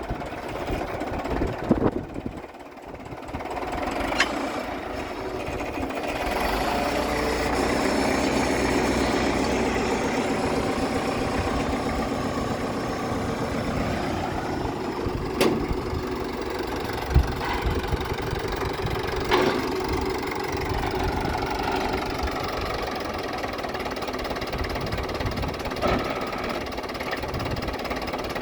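Case 830 tractor engine running steadily. It dips briefly about two seconds in, then picks up again. A few sharp metallic clanks sound over it, around four, fifteen, seventeen, nineteen and twenty-six seconds in.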